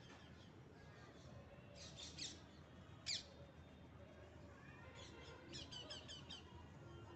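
Faint chirping of small birds: a few short chirps about two seconds in, one sharp falling note about three seconds in, the loudest, and a quick run of about six repeated notes near the end.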